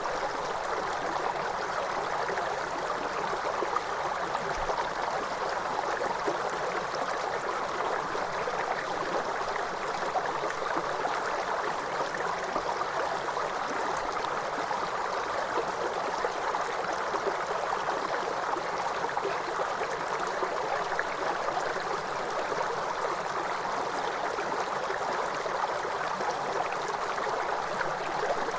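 Waterfall, falling water rushing and splashing in a steady, unbroken wash.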